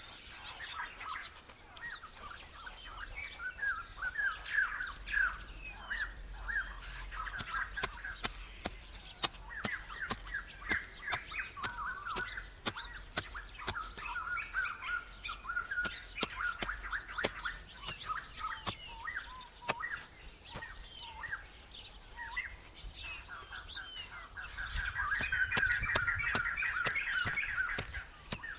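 Several small birds chirping and twittering without a break, the chirps thickening into a rapid, dense chatter near the end. Scattered sharp ticks sound over the birdsong.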